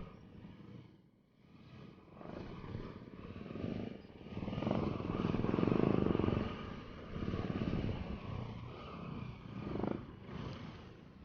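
Motorcycle engine running, its pitch rising and falling as it revs; it swells to its loudest about six seconds in, then fades.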